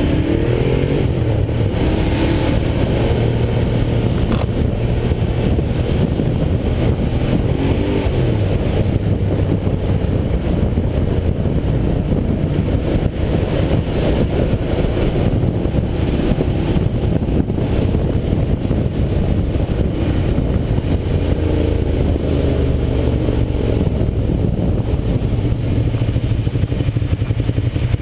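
Ducati Diavel's L-twin engine running under way in city traffic, heard from on the bike. Its pitch rises and falls several times as the rider accelerates and eases off.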